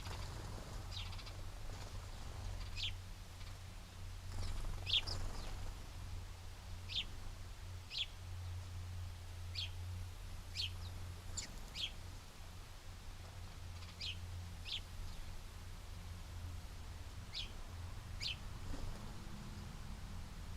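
Small birds at a feeder giving short, high chirps, single or in quick pairs, every second or two at irregular intervals, over a steady low hum.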